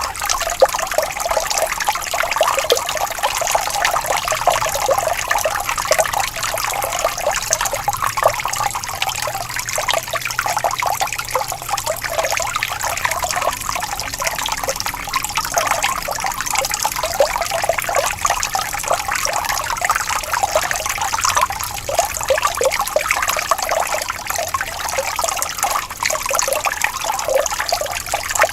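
Stream water trickling and flowing steadily over stones, a continuous bubbling splash with no breaks.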